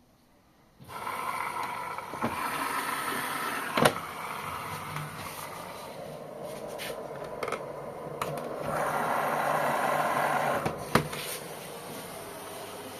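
Washing machine filling: a steady hiss of water starts suddenly about a second in and swells for a couple of seconds near the end, with two sharp clicks.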